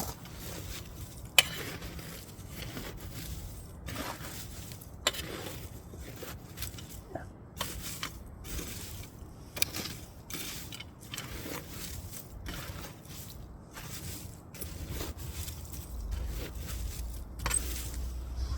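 Wood fire crackling, with irregular pops and snaps over a low steady rumble. One sharp pop about a second and a half in is the loudest.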